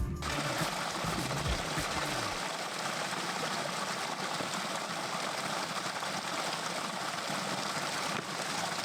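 Steady rush of water from a mountain stream or waterfall, an even hiss with little low rumble.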